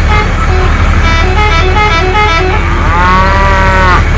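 A quick tune of short pitched notes over a steady low rumble, ending in one longer note that bends up and then down.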